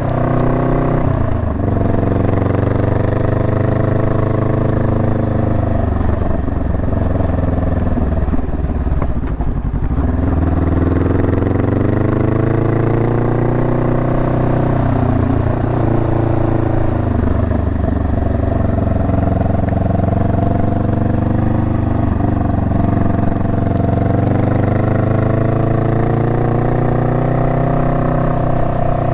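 Honda Rebel 500's parallel-twin engine running while riding. Its note falls and climbs back several times, most deeply a few seconds before the middle, as the throttle is eased off and opened again.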